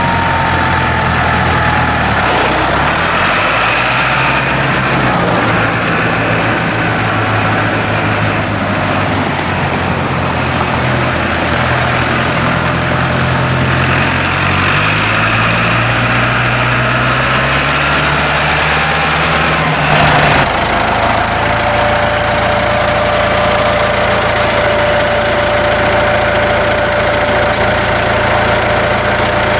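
International 784 tractor's three-cylinder diesel engine running, its speed shifting up and down, then climbing and settling at a steady higher speed about two-thirds through, with a thin steady whine over it from then on.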